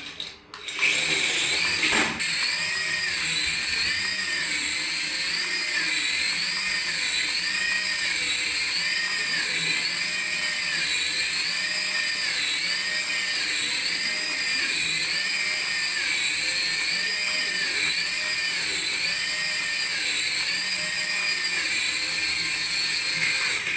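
Electronic sound effect from a battery-powered toy: a high, warbling siren-like tone that rises and falls about once a second. It breaks off briefly just after the start, with a short click about two seconds in.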